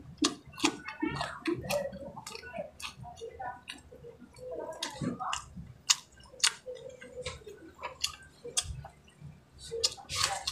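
Close-up chewing of boiled corn kernels: many irregular wet mouth clicks and lip smacks.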